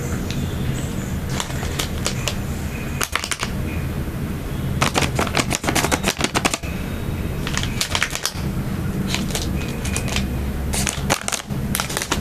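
Close-miked crackling of snack food and its wrapping being handled or bitten, in clusters of rapid sharp clicks, over a steady low hum.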